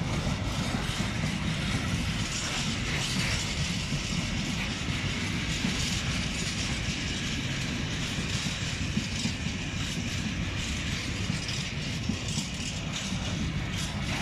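Freight train's covered and flat wagons rolling past close by: a steady rumble of steel wheels on the rails with a hiss over it and faint clicks over the rail joints.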